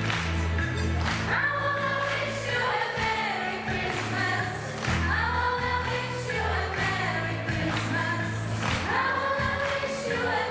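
Choir singing a song with instrumental backing and a steady bass line.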